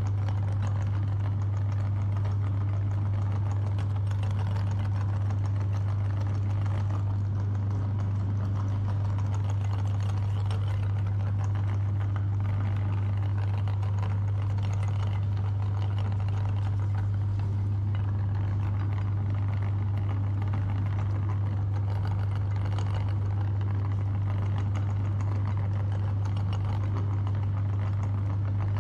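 Electric meat grinder motor running steadily with a strong, constant low hum and an even mechanical rattle.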